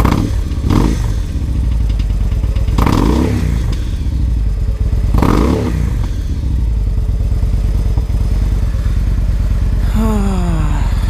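Victory Highball's air-cooled V-twin engine running under way, revving up and easing off a few times, with a falling pitch near the end. The bike is making weird, nattering noises, which the owner thinks are the valves and cam chain needing adjustment.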